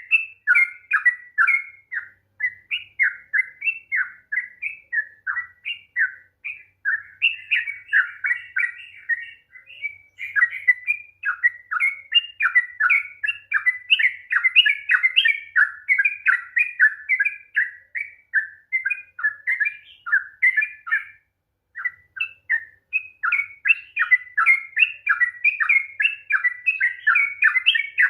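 Yellow-vented bulbul (trucukan) singing a long, fast, unbroken run of chattering, warbled notes (the 'ropel panjang' style), with one brief pause about 21 seconds in.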